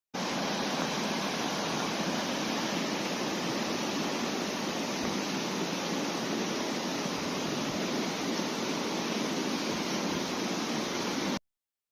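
Rushing river water, a steady, even rush that starts suddenly and cuts off suddenly.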